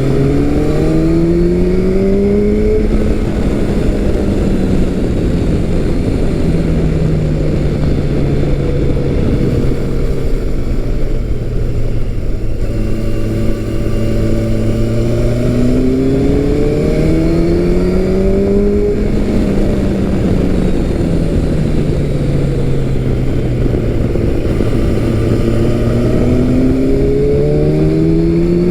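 A 2015 Kawasaki Versys 1000 LT's inline-four engine accelerating under way, its revs climbing at the start, then easing back and holding steady. The revs climb again about halfway through and once more near the end, over a steady rush of wind and road noise.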